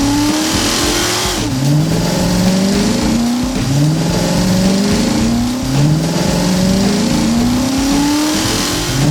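Race car engine accelerating through the gears, its pitch climbing and then dropping back about every two seconds.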